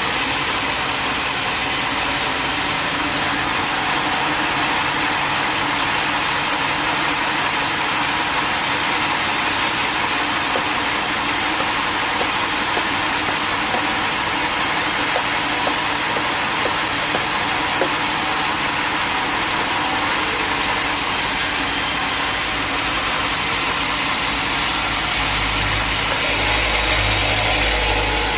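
Sawmill machinery running steadily: a continuous motor hum with a noisy hiss over it. About 25 seconds in, a deeper low rumble joins for the last few seconds.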